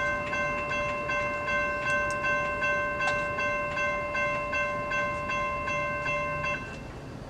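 Railroad grade crossing bell ringing about two and a half strikes a second, then stopping about six and a half seconds in.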